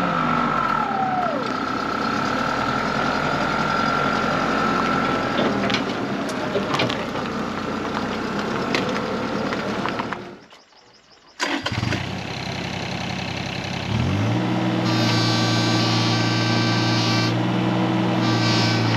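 Heavy machinery engine running, with a whine that fades out about five seconds in. The sound cuts out about ten seconds in, then an engine starts about four seconds later and settles into a steady even idle.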